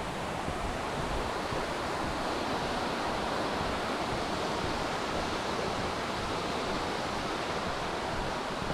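Steady rushing of a waterfall's falling water, an even unbroken roar.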